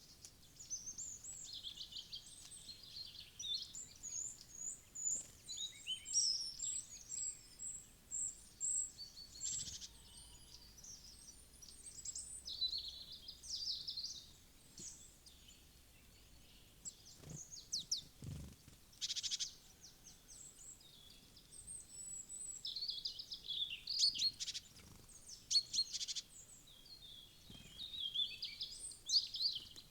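Small forest birds chirping and calling in quick, overlapping high notes and short trills, with a lull a little past the middle. A few knocks sound during that lull.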